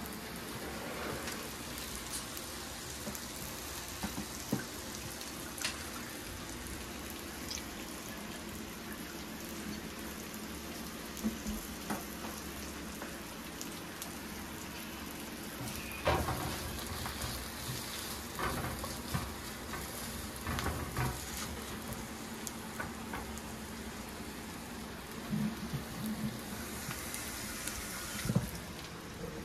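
Food sizzling steadily in a hot pan for a beef and onion stir-fry, with scattered knocks and clinks of a utensil against the pan, the loudest about halfway through.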